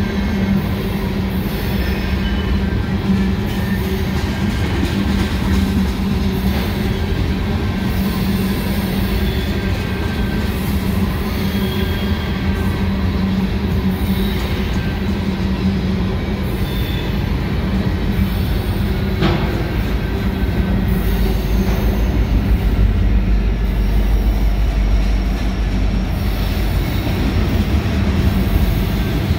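Freight train of loaded covered hopper cars rolling past close by: a steady rumble of steel wheels on rail, with short, faint high-pitched wheel squeals now and then as the cars take the curve. A deeper rumble builds over the last several seconds.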